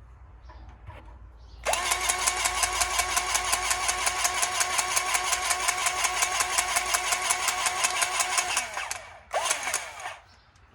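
Cordless electric grease gun pumping grease into a fitting on the truck's air brakes: the motor whines up to speed and runs with a fast, even pulsing for about seven seconds, stops, then gives one short second burst.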